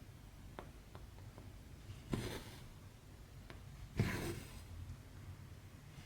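Cross stitch thread being pulled through stamped 14-count cloth: two short swishes about two seconds apart, with a few faint ticks of the needle going through the fabric before them.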